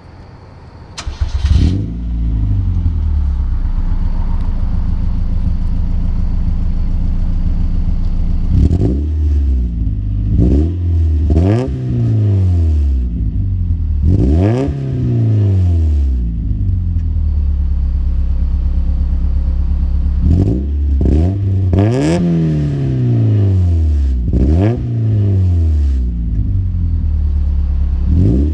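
1990 Mazda Miata's 1.6-litre four-cylinder engine heard through a new Enjuku ISIS cat-back exhaust on the stock manifold and catalytic converter. It starts up about a second in and idles steadily, then is blipped repeatedly, each rev climbing and dropping back quickly to idle.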